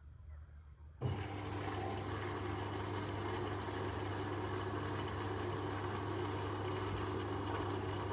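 Bosch Exxcel 1400 washing machine moving water: about a second in, a steady rush of water starts suddenly together with a low electrical hum.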